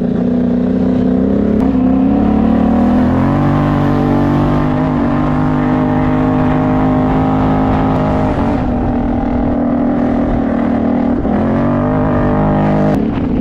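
Can-Am Outlander ATV engine running under way, a loud steady drone whose pitch steps up about three seconds in and eases back down near the nine-second mark.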